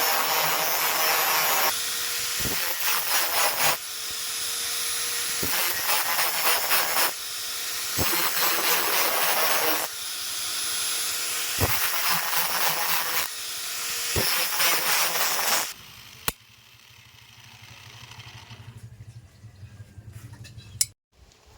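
Harsh hissing scraping in a run of strokes about two seconds long each, with a sharp click between strokes, giving way about three-quarters of the way through to a much quieter low hum with a few clicks.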